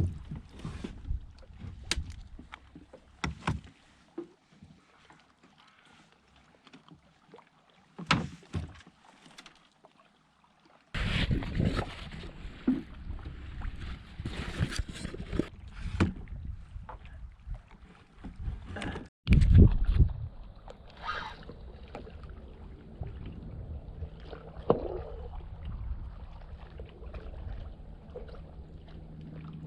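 Sounds of a kayak on the water: scattered knocks and clicks against the hull with water splashing and noise. The sound breaks off abruptly about two-thirds of the way through, and a steadier water-and-wind noise follows.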